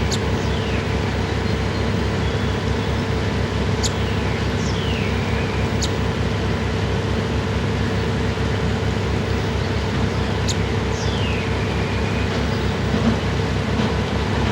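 A loud, steady mechanical drone with a fast low pulsing and a constant hum. Over it a fledgling northern cardinal gives a few sharp high chip notes and short downward-sliding calls.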